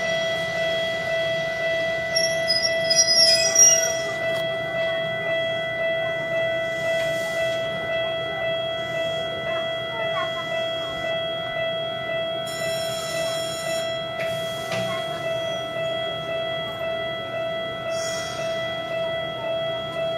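Japanese railway level-crossing warning bell ringing in a steady repeating pulse as a tram approaches, with a short burst of louder high-pitched clatter about two to four seconds in.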